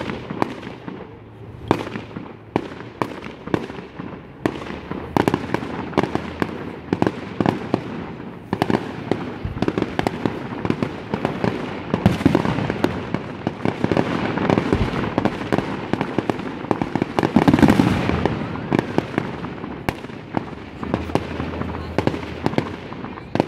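Aerial fireworks bursting: a quick, continuous run of sharp bangs with crackling in between, building to a dense barrage about halfway through and again about three-quarters through.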